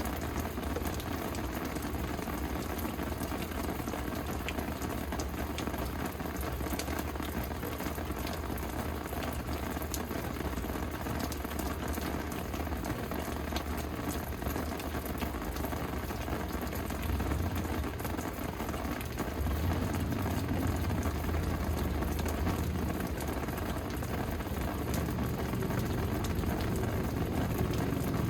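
Steady rain falling, an even hiss with many small drop ticks. A low rumble swells about two-thirds of the way through and stays louder to the end.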